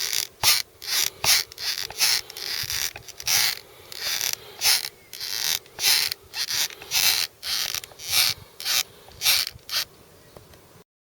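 Skateboard truck creaking as the deck is tilted back and forth: a long run of short, harsh creaks, about one or two a second. This is the symptom of a dry truck that needs grease.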